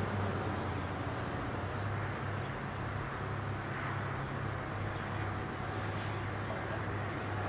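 Engine of a rice combine harvester running with a steady low hum, working the field.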